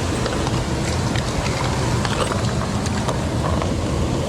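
Mountain stream rushing over rocks: a steady, loud wash of water, with a few faint clicks over it.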